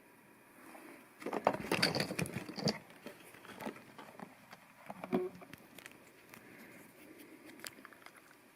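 Small plastic LEGO Technic parts clicking and rattling as they are handled and sorted, in a busy flurry for about a second and a half, then a few scattered single clicks.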